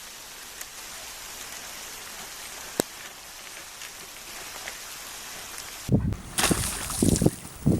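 Steady hiss of falling water, like rain, with scattered faint drop ticks and one sharp click about three seconds in. About six seconds in it cuts to a loud low rumble with wind buffeting.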